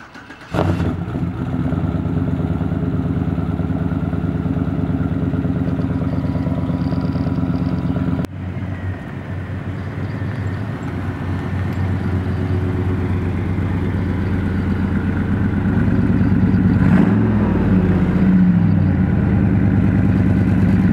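Twin-turbo LS V8 in a Chevelle running at a steady idle, cutting in abruptly about half a second in. Near the end its pitch briefly rises and falls, as in a rev.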